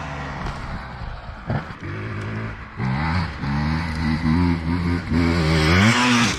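Dirt bike engine running, low and steady at first. From about halfway through the throttle is blipped repeatedly and the pitch rises and falls, with the biggest, loudest rev near the end.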